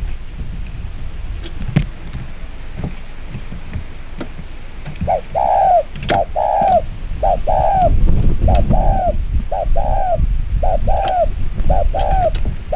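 Spotted dove cooing very fast: from about five seconds in, seven two-part coos follow one another about once a second, each a short note and then a longer arched one. Low wind-like rumble and a few clicks come before the cooing.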